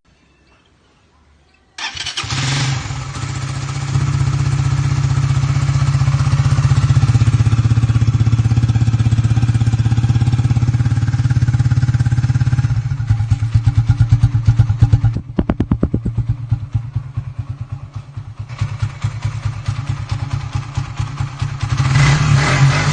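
Single-cylinder Suzuki Raider 150 motorcycle engine through an aftermarket exhaust pipe, cutting in loudly about two seconds in and held at raised revs. About halfway it drops to an uneven idle with separate exhaust pulses, then revs up again near the end.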